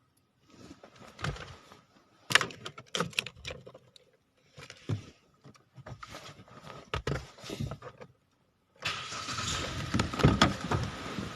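Parts and tools clicking and clattering as they are handled in the engine bay, then, about three seconds before the end, the Hyundai Accent's engine is started and keeps running. The engine carries a cylinder 2 misfire fault.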